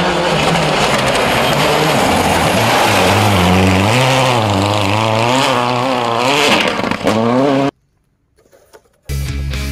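A racing engine revving, its pitch rising and falling several times, then cutting off abruptly about eight seconds in. After a short near-silent gap, rock music starts again near the end.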